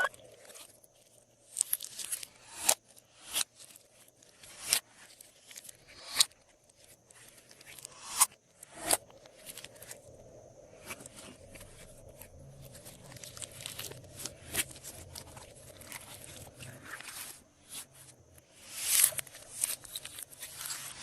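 Glossy slime being squeezed and stretched by hand, giving irregular sticky crackles and sharp clicking pops, about one every second or two. There is a quieter stretch of faint crackle in the middle, and the pops are louder near the end.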